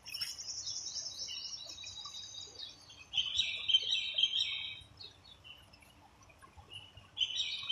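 Small birds chirping and twittering in quick, high trills. One trill runs for the first two and a half seconds, a lower, louder twittering phrase follows about three to five seconds in, and another begins near the end.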